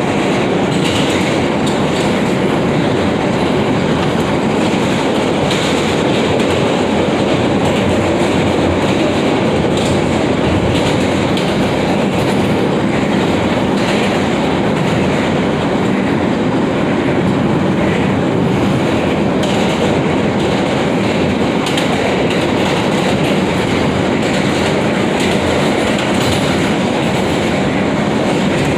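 New York City Subway F train running between stations: a steady, loud rumble and rush of the wheels on the track, with occasional clicks as the wheels pass over rail joints.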